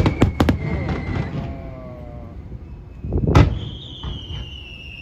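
Fireworks going off: a quick cluster of sharp cracks at the start, then a loud boom a little over three seconds in, followed by a high whistle that slowly falls in pitch.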